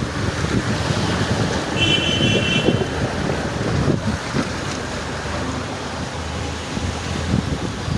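Wind buffeting the microphone over a steady rush of outdoor street and water noise, with a brief high-pitched tone about two seconds in.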